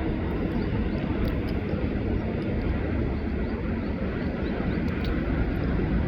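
Airbus A330-300 jet airliner's twin engines on its take-off run: a steady, deep jet rumble.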